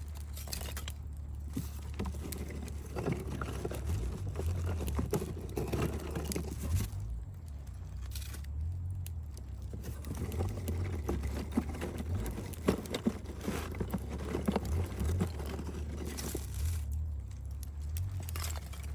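Wood campfire crackling and popping with irregular sharp snaps, over a low rumble.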